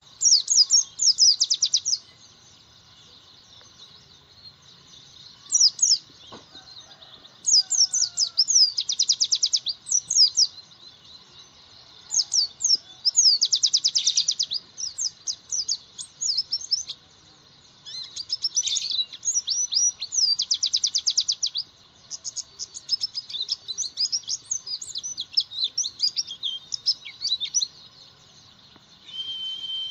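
White-eye (pleci) singing: bursts of rapid, high twittering notes and fast trills, each a second or two long, separated by short pauses.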